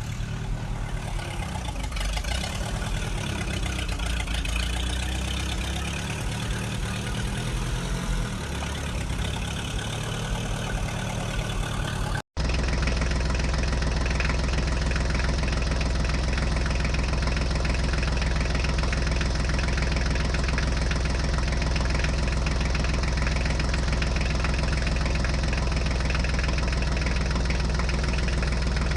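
A tractor engine idling steadily. About twelve seconds in, the sound cuts out for an instant and comes back as a steadier, deeper idle.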